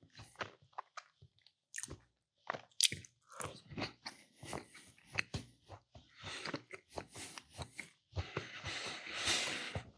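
Close-miked chewing and biting of a Funny Bones chocolate snack cake: irregular wet mouth clicks and smacks, one sharper bite about three seconds in, and denser chewing noise in the last two seconds.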